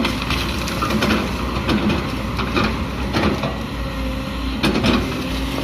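Excavator's diesel engine running steadily, with short sharp knocks and clanks from the machine scattered through it, a cluster of them louder near the end.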